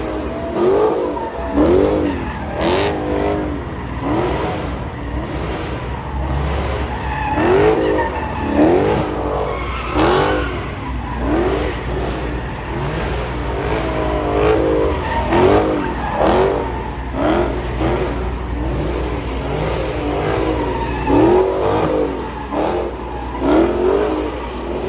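A car engine revving hard in repeated surges, about one a second, its pitch climbing and dropping each time, with tyres squealing as the car slides.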